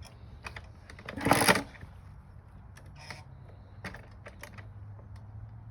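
Kawasaki KX60 small two-stroke dirt bike engine running at a low, steady idle, with one brief louder surge about a second in and light scattered clicks.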